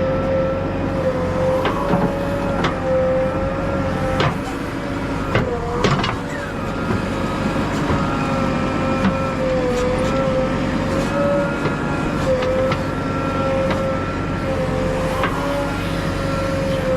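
JCB backhoe loader running steadily at work, a diesel drone with a wavering whine over it, broken by a few sharp knocks.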